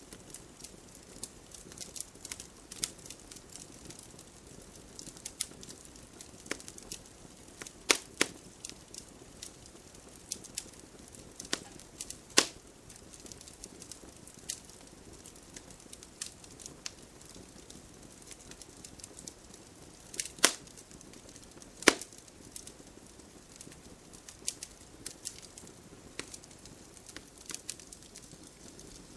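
Campfire crackling: a steady run of small sharp clicks over a faint hiss, with a handful of louder single pops scattered through.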